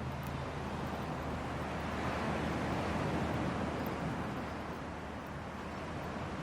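Hardwood campfire burning: a steady rush of flames that swells a little in the middle, with a few faint crackles.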